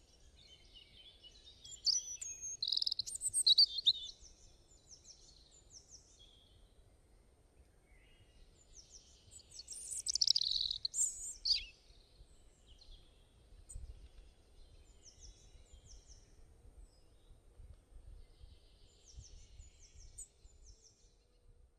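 Birds singing: two loud bursts of high, fast song, one a couple of seconds in and another about halfway, with quieter short chirps repeated in between, over a faint low rumble.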